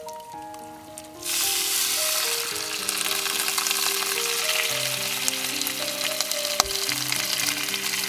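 Meat laid on a hot cooking plate starts sizzling loudly about a second in and keeps frying steadily.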